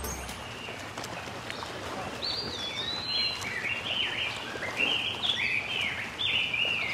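A bird singing outdoors: a string of short, falling chirps repeated many times, starting about two seconds in, over quiet outdoor background noise.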